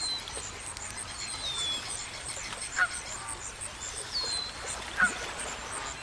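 Bird calls: three descending whistles and two short, louder calls about three and five seconds in, over a rapid, even series of high chirps.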